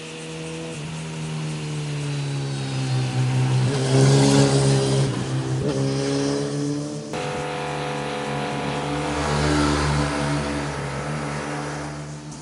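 Motorcycle engines revving and accelerating as they pass, heard in several short spliced segments with sudden jumps in engine note. The engine note rises to its loudest about four seconds in and fades near the end.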